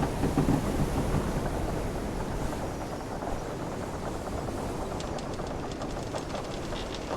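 Wooden sailing ship's timbers creaking over a steady low rumble of sea waves, with a low groaning creak in the first second and light wooden clicks in the second half.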